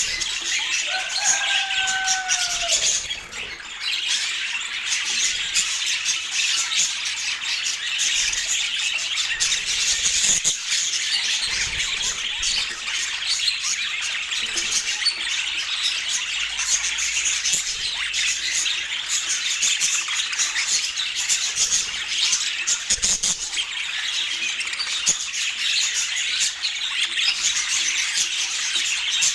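A flock of budgerigars chattering: a dense, continuous warble of chirps and squawks. About a second in, one clear whistled call glides down in pitch.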